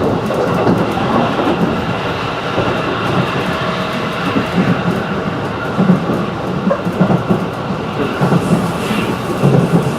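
Running noise of a 211-series electric train heard from inside the carriage: a steady rumble of wheels on rail, with clacks from rail joints coming through in the second half.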